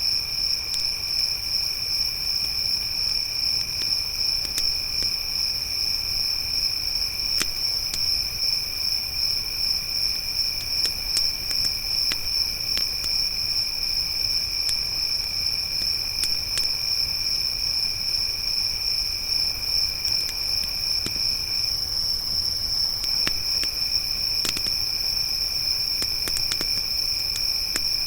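Crickets trilling in a steady, continuous chorus: one high unbroken trill, with a lower second trill that pauses for about a second roughly three-quarters of the way through. A campfire crackles faintly underneath with sparse small pops.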